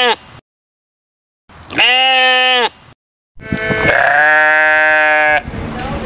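Sheep bleating. There is the end of one bleat, then a bleat of about a second, then a longer bleat of about two seconds, with dead silence between them. A rough, noisy background begins near the end.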